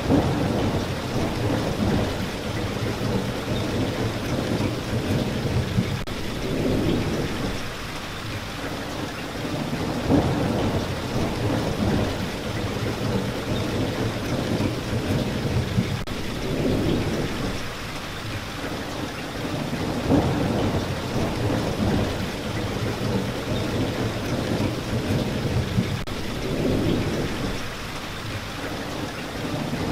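Steady rain hissing without a break, with low rumbling swells every three to four seconds.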